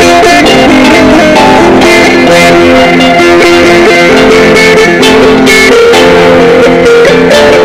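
Sape, the Dayak boat-shaped plucked lute of Borneo, being played: a melody of plucked notes over steady, sustained lower drone notes.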